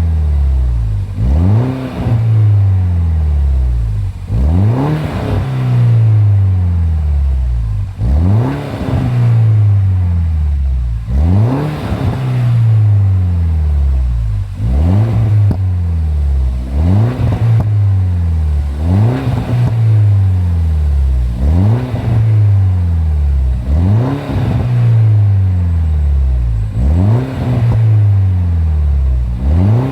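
A MINI Cooper S R56's 1.6-litre turbocharged four-cylinder N14 engine being revved over and over through its exhaust. The pitch rises sharply with each throttle blip and then falls back slowly, about once every two seconds.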